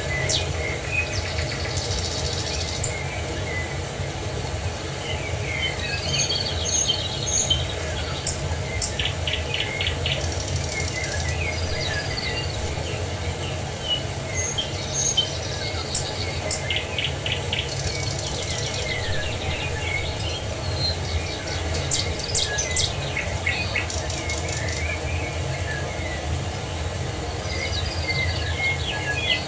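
Several birds singing and chirping in short trills and calls over the steady low rush of a waterfall.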